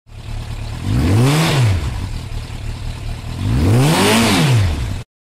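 Motorcycle engine idling and revved twice, each rev rising and falling in pitch over about a second; the sound stops abruptly near the end.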